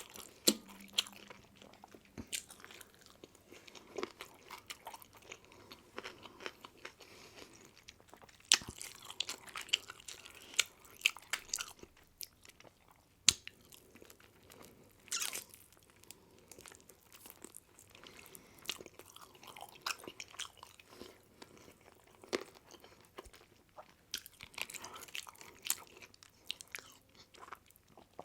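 Close-up mouth sounds of a person eating pizza: irregular wet chewing with sharp crunchy bites and smacks scattered throughout, in clusters rather than a steady rhythm.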